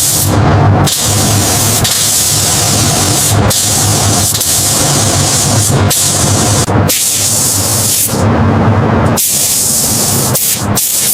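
Loud spraying hiss over a steady machine hum. The spray stops for short moments several times, once for about a second, while the hum keeps running.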